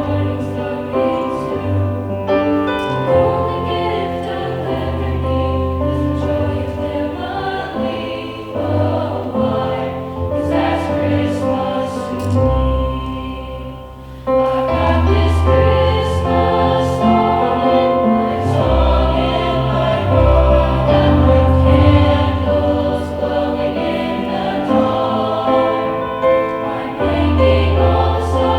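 High school choir singing a Christmas song over a low accompaniment. The sound thins out about halfway through, then comes back fuller and louder.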